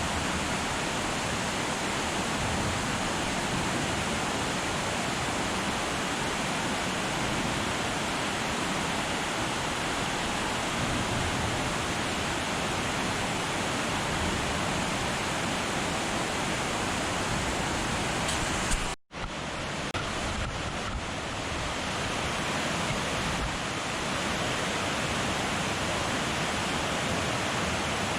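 Waterfall rushing in a steady roar of falling water. The sound cuts out abruptly for a split second about two-thirds through, then resumes unchanged.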